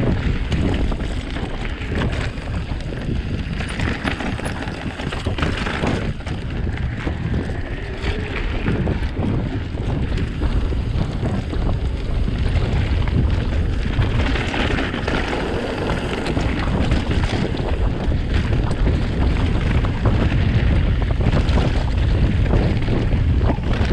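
Wind buffeting the camera microphone while riding, a steady rumble broken by scattered knocks.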